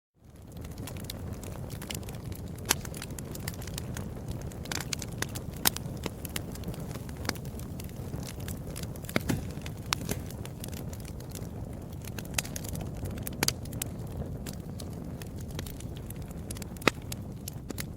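Wood fire crackling and popping: a steady low rumble of burning with scattered sharp snaps, a few of them louder than the rest. It fades in from silence at the start.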